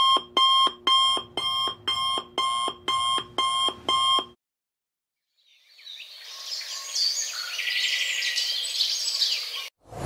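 An alarm clock rings in nine short, even bursts, about two a second, and stops about four seconds in. After a second of silence, a chorus of birds chirps and sings until just before the end.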